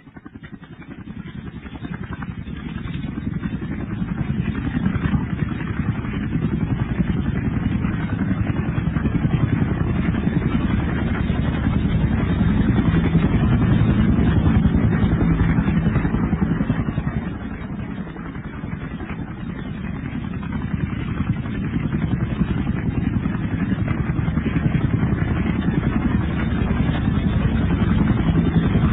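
A steady low engine drone fades in over the first few seconds, dips briefly past the middle, then returns.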